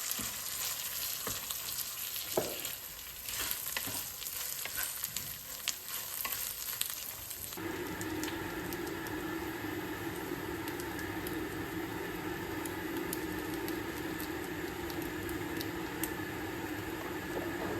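Food sizzling and crackling in a hot pan with small stirring clicks; about seven and a half seconds in the sound changes suddenly to a steady hum.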